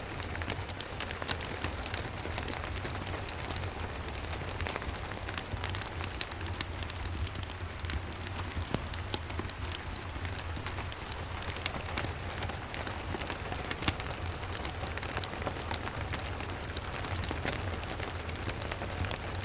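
Steady rain mixed with a crackling wood fire: an even hiss of rain, many small sharp crackles scattered through it, and a steady low rumble underneath.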